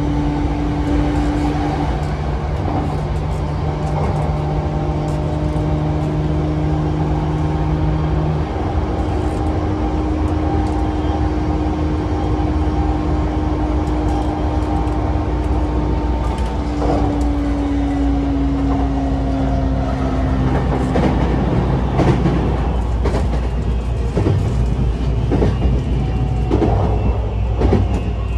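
Running sound of a JR East E235-1000 series electric train heard from inside the car: a steady traction-motor hum over rumble from the wheels and rails. About two-thirds of the way through, the motor tone drops slightly and the wheels start clicking over rail joints and points.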